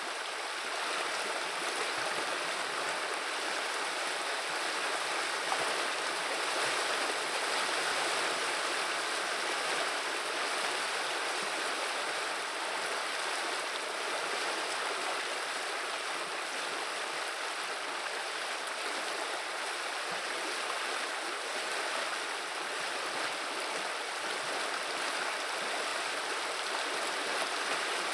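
Flowing river water running steadily, a continuous even babble with no breaks.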